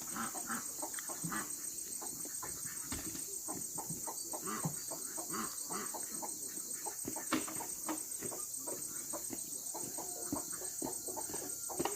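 Chickens clucking, many short irregular calls, over a steady high hiss.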